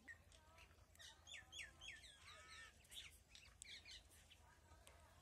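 Faint birdsong: a run of short, quick chirps, each falling in pitch, from about one to four seconds in, over an otherwise near-silent background.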